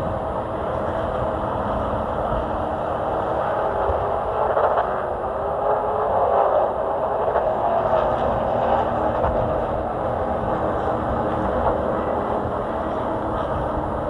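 Chevy race truck's engine running at racing speed, louder through the middle of the stretch.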